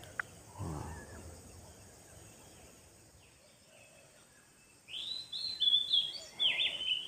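A bird singing a quick run of chirping, whistled notes, starting about five seconds in. Before it, a faint click and a soft rustle.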